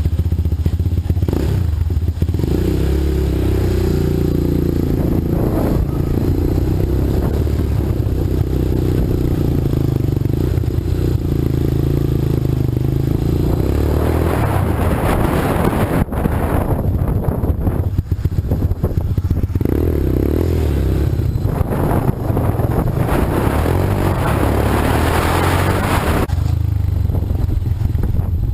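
Small vehicle engine running steadily just after it catches, with a low, even idle; twice it works harder, sounding rougher and fuller, before settling back to idle.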